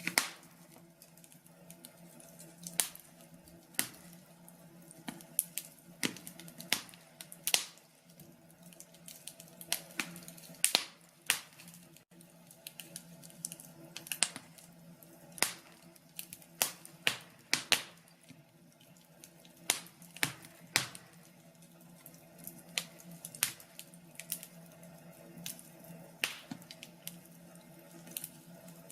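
Wood fire crackling in a fireplace: irregular sharp pops and snaps, sometimes several in quick succession, over a faint steady background.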